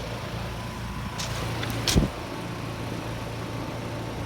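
Outdoor heat pump condensing unit running in cooling mode, a steady mechanical hum, with a sharp thump about two seconds in.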